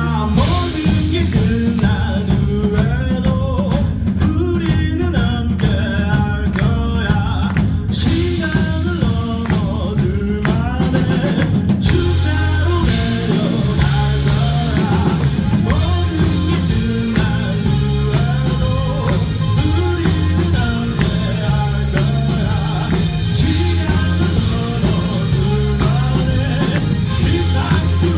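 A rock band playing live, with a singer, drum kit, electric guitar and bass, and the bass line and drums prominent.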